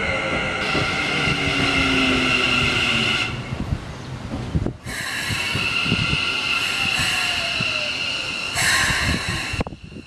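Keikyu New 1000 series stainless electric train pulling into a station and braking to a stop. Its wheels and brakes give high, steady squealing tones, and the motor's whine falls in pitch as it slows. Near the end a short burst of air hiss comes as the train stops.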